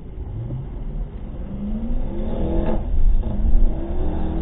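Car engine accelerating, its pitch climbing steadily, then dropping about halfway through and climbing again, over a low road rumble.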